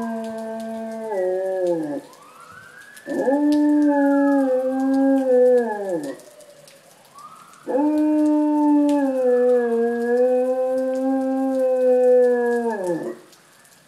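Pet dog howling along with a passing fire truck siren: three long howls, each dropping in pitch as it trails off. The siren's fainter wail rises and falls behind and between them.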